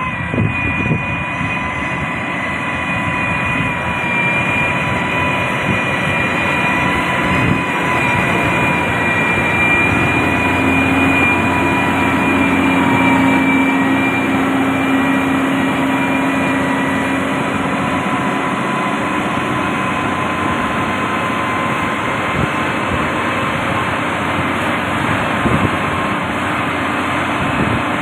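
Heavy diesel road-building machinery running steadily, with a continuous high whine over the engine rumble. A lower hum swells about a third of the way in and fades again past the middle.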